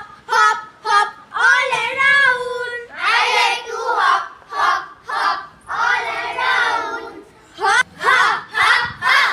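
Children singing a phonics chant, short high-pitched phrases one after another.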